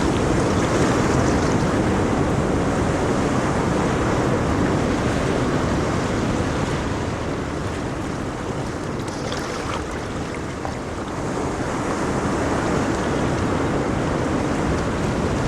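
Ocean waves breaking and washing on a shore, a steady surf with slow swells and a lull about two-thirds of the way through.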